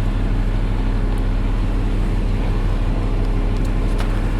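A vehicle engine idling steadily with a low, even hum, with a few faint clicks near the end.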